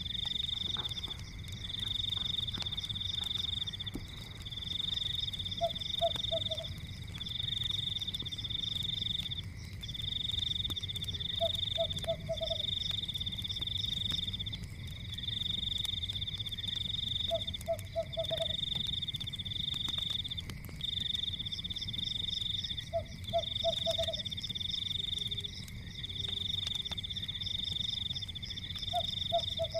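Night frog and insect chorus: a high trilling chorus in long pulses with short breaks, and a lower croak in quick runs of three or four about every six seconds. Underneath are a low steady rumble and scattered faint crackles of a wood fire.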